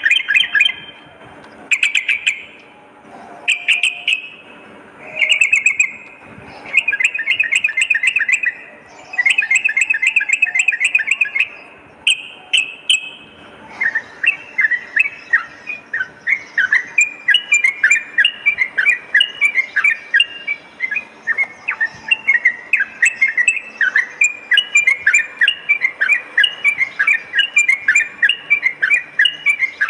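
Yellow-vented bulbul (trucukan) singing: rapid bubbling phrases about a second long with short pauses between them, then from about halfway through a continuous run of quick, repeated descending chirps.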